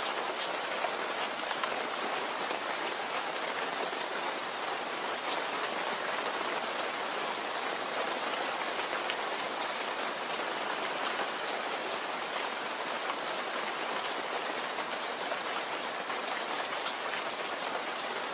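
Steady rain falling, a dense hiss with many distinct drops pattering on a surface.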